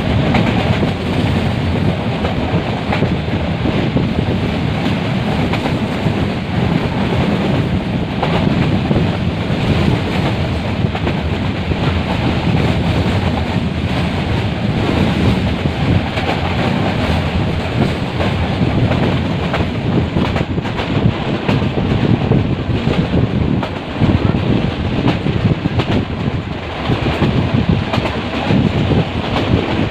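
Metre-gauge passenger train in motion: steady running noise of its wheels on the track.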